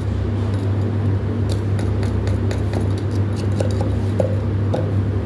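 A steady low mechanical hum with many small, sharp clicks and taps scattered over it, most frequent in the middle.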